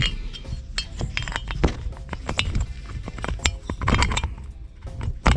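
Aluminium piston of an Alfa 110 moped engine being rocked by hand in its cylinder bore, clinking metal on metal in quick irregular knocks. The play is excessive: the piston had been fitted the wrong way round and the bore is worn, and the mechanic thinks this play is the engine's knock.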